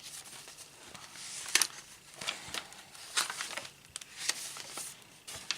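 Paper and card pages of a handmade journal being handled and turned: irregular rustles with a few sharper crinkles.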